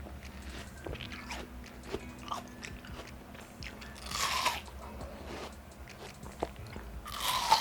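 Close-up biting and chewing of fresh watermelon slices: small wet crunches and mouth clicks, with two louder juicy bites about four seconds in and near the end.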